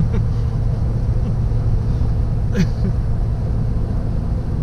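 Steady road and engine rumble inside a moving car's cabin, with a low steady hum. A brief sharp sound cuts in about halfway through.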